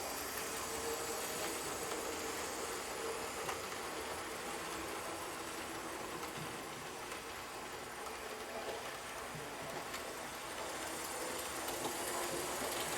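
TYCO HO-scale model diesel locomotives running steadily on track, giving a continuous motor and gear hum with a faint steady whine and wheel noise. The engines have freshly oiled gears and reglued drive gears, and are running smoothly.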